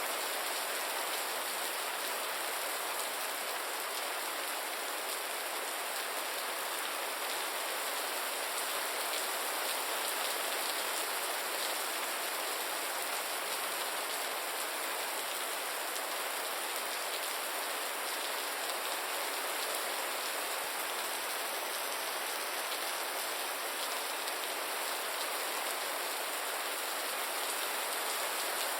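Steady rain falling, a dense even hiss of many fine drops pattering on a surface.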